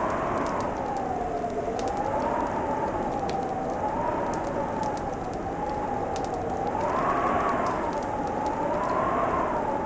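Winter wind howling in a tone that slowly rises and falls, over a fireplace crackling with sparse small pops and a steady hiss.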